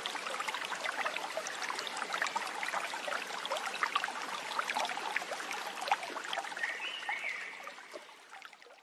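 Small stream trickling and babbling over stones, full of tiny droplet ticks, with a brief chirp about seven seconds in. The sound fades out over the last second or so.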